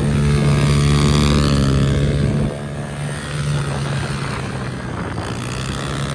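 Pit bike's single-cylinder engine running at a steady pitch, then dropping in level to a rougher, noisier note about two and a half seconds in.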